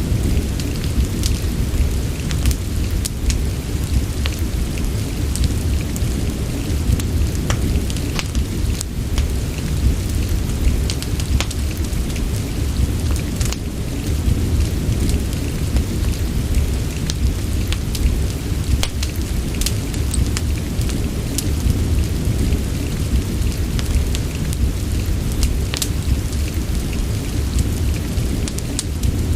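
Steady rain with a deep, continuous low rumble under it, and many short sharp pops and ticks scattered irregularly through it, as from raindrops and a crackling wood fire.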